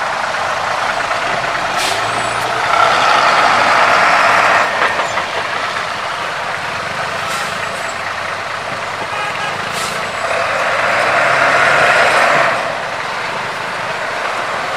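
Heavy trucks driving slowly, their engine noise steady with two louder swells of about two seconds each, a few seconds in and again near the end.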